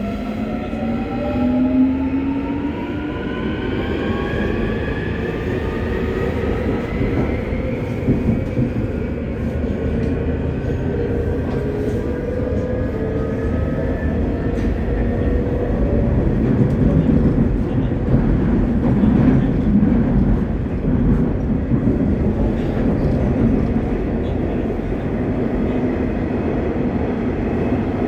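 Busan Metro Line 3 train with Hyundai Rotem IGBT-VVVF traction equipment accelerating: the inverter and traction motors whine in several tones that climb steadily in pitch, then fade about halfway through. After that comes the steady rumble of the train running on the rails, with a few light clicks.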